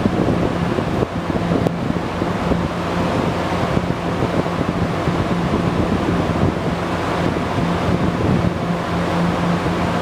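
Steady rumble of a train standing at the station, with a constant low hum running under it and wind buffeting the microphone.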